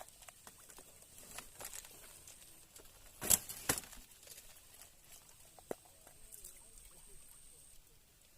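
Scattered light clicks and rustles, with two sharp knocks close together a little after three seconds in, over a faint steady high-pitched whine.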